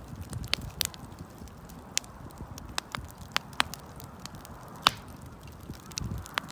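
Wood campfire crackling, with irregular sharp pops and snaps over the low rumble of the flames; the low rumble swells briefly near the end.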